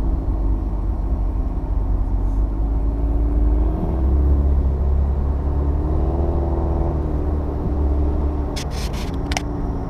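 2008 Saturn Sky Redline's turbocharged four-cylinder engine running on the move, under a heavy road rumble. The engine note rises and eases back twice. A few short clicks come near the end.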